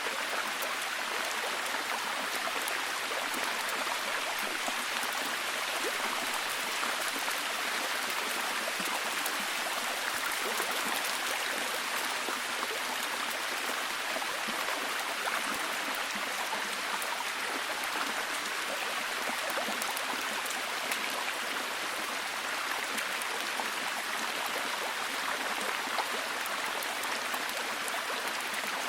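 Steady heavy rain falling, a constant hiss made up of many fine drop impacts, with no change in intensity.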